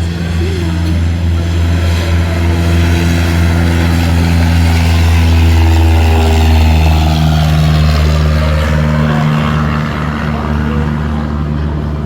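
Cessna 182 single-engine propeller plane at full takeoff power, a steady engine and propeller drone. It grows louder to a peak about six seconds in, and its pitch slides down as it passes, then it fades a little.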